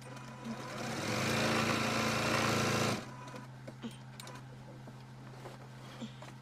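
Electric sewing machine running in one burst of stitching for about two and a half seconds, then stopping. A low steady hum and a few light clicks follow.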